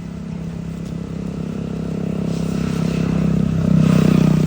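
A motor running with a steady hum that grows louder, loudest about four seconds in.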